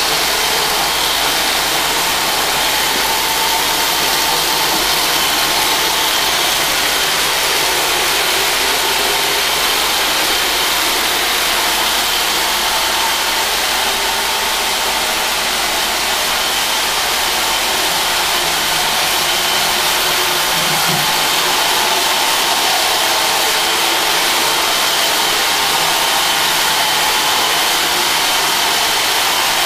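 iRobot Roomba Scheduler 4260 robot vacuum running and cleaning: a steady whir of its vacuum motor and brushes, with a thin high whine held throughout.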